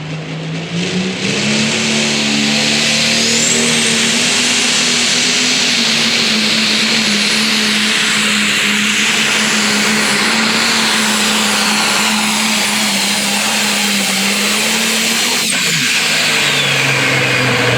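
Pulling tractor's diesel engine opening up to full throttle about a second in and running hard under load at a steady high pitch while it drags the sled, then the throttle is cut near the end and the engine falls back to a lower idle.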